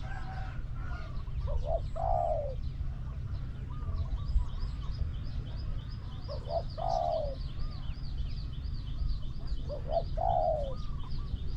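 Spotted dove cooing three times, about four seconds apart, each phrase a short note followed by a longer falling coo. A small bird keeps up fast high chirping from about four seconds in.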